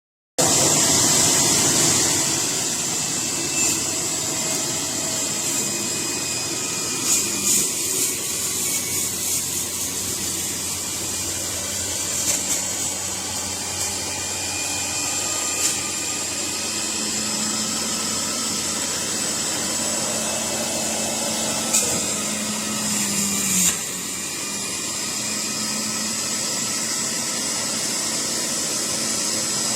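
Motor of a 400 W electric juice extractor running steadily with a high whine, with occasional short knocks as it works. It starts abruptly about half a second in.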